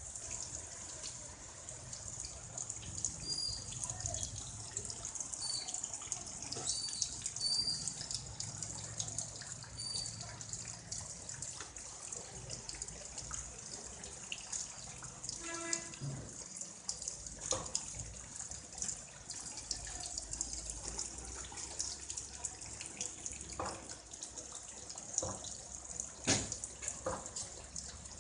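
Heavy rain falling, with a steady hiss and many scattered drips and patters, over a low rumble. A brief pitched tone sounds about halfway through.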